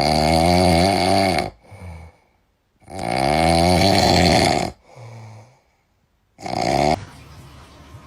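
An animal snoring loudly in long, rasping strokes about three seconds apart. A short last snore cuts off sharply about seven seconds in, leaving a low steady background.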